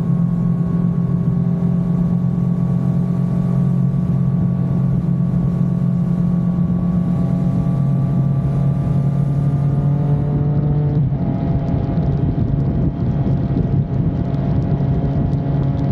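Triumph Street Triple RS 765 cc three-cylinder engine running through a Leo Vince LV One aftermarket exhaust. Its note holds steady with a slow slight rise in pitch, then steps down about eleven seconds in and carries on steadily.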